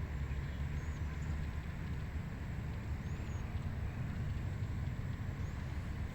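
Steady wind blowing across a rice paddy, with a low rumble of wind on the microphone. A few faint, short high chirps come through about a second in, midway and near the end.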